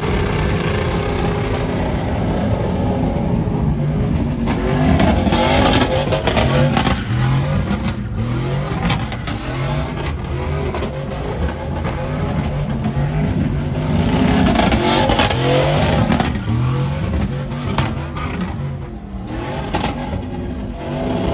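Truck engine revving hard, its pitch climbing in repeated rising runs.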